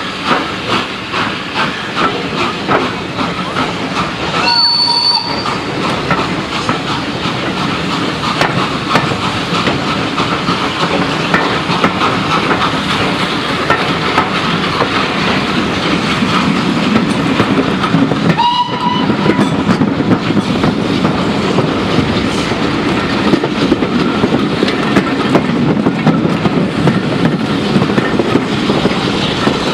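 Steam-hauled train, headed by Southern Railway N15 'King Arthur' class 4-6-0 30777 Sir Lamiel, running past with a continuous rumble and wheels clattering over the rail joints. Two brief high tones sound about 4 seconds in and again near the middle.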